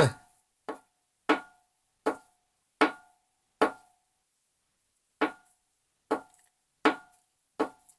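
Sharp metallic knocks from the third cylinder's connecting rod on a VAZ-21124 engine as it is rocked up and down by hand on the crankshaft journal, about nine knocks with a short pause in the middle. The free play shows a worn big-end bearing shell, one that may already have spun.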